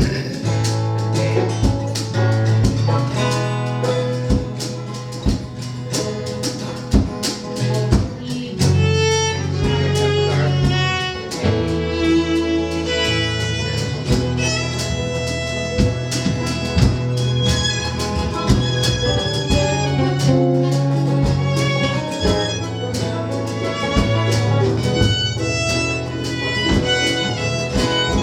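A live band playing a song with no singing, the fiddle carrying the lead over guitar, a steady bass line and a regular rhythmic beat.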